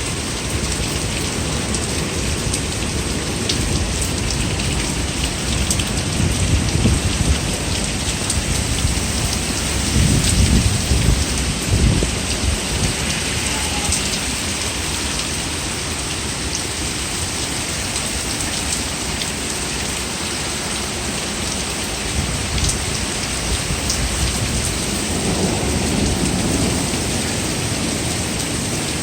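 Hailstones and heavy rain pelting down in a steady dense patter, with scattered sharp ticks of individual stones striking hard surfaces. Low rumbling swells rise around six seconds in, again about ten to twelve seconds in, and near the end.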